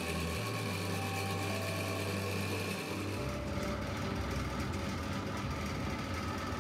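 Steady low mechanical hum with no knife strikes, its low tone shifting slightly about three seconds in.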